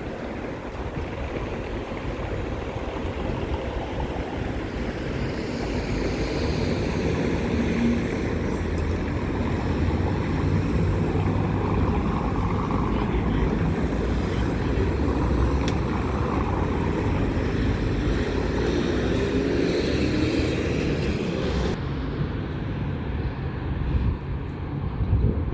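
An engine droning steadily with a low hum under a rushing hiss; the hiss drops away about 22 seconds in.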